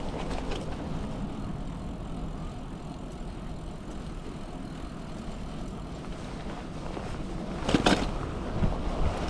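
Rain pants crunching as the rider's legs pedal, over a steady low rumble of riding on a bicycle, with one short, louder burst of noise near the end.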